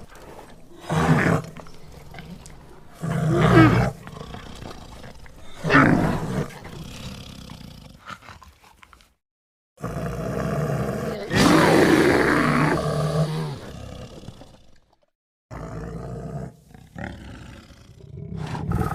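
Film sound effect of a bear roaring and growling in separate edited clips: three short roars in the first six seconds, a longer roar around eleven to thirteen seconds, and more growling near the end. Between clips the sound cuts abruptly to dead silence twice.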